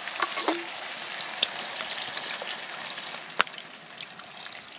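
Broccoli and sauce sizzling in a hot pan, a steady crackle that eases off slightly toward the end, with a few sharp clicks, the loudest about three and a half seconds in.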